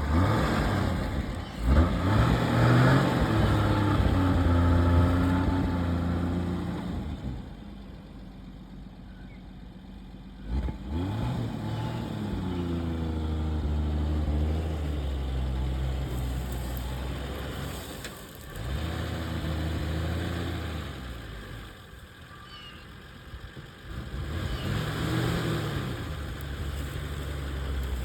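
A 1967 Ford Bronco's 170 cubic-inch inline-six engine running and speeding up about four times, its pitch rising and then easing back between surges.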